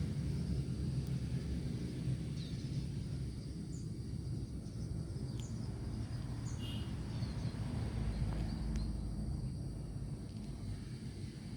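Short, faint high peeps from white-breasted waterhen chicks, scattered irregularly over a low steady rumble.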